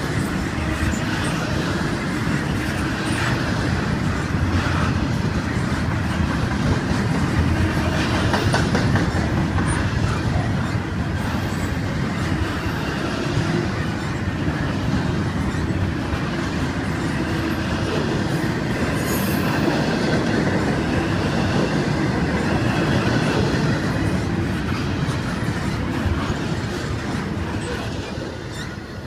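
Double-stack intermodal freight cars rolling past close by: a steady rumble and clatter of steel wheels on the rails, fading near the end as the last car goes by.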